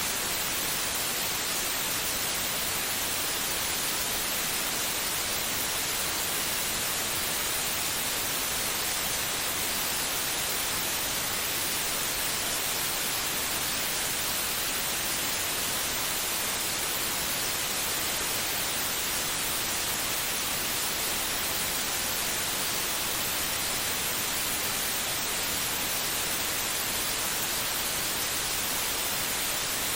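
Steady white noise: an even, unbroken hiss with most of its energy in the high range, played as a calming sound for a baby's sleep.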